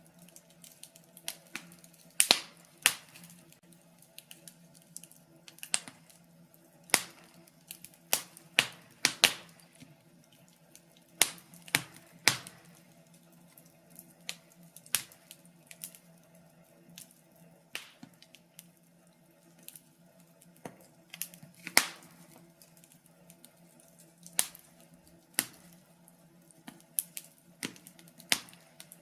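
Wood fire crackling: irregular sharp pops and snaps, some close together and some with pauses of a second or two, over a faint steady low hum.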